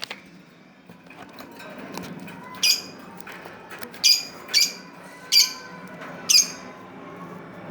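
Pet cage bird giving five short, sharp, high chirps spaced about a second apart.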